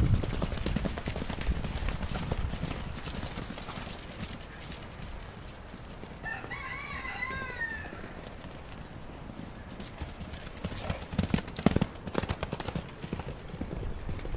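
Hooves of horses and donkeys thudding and clip-clopping on the field as they run, with wind rumbling on the microphone, strongest in the first few seconds. About halfway through, an animal gives one high, wavering call lasting over a second.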